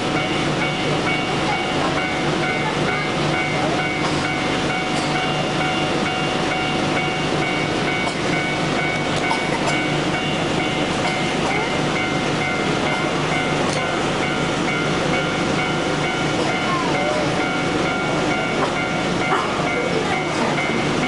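Steady hum of a standing electric train, with its equipment giving a constant whine of several held tones. Faint voices are mixed in.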